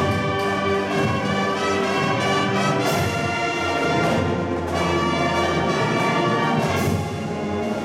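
Marching band performing at full volume: brass section playing sustained, chord-rich lines, with sharp percussion accents about three seconds in and again near the end.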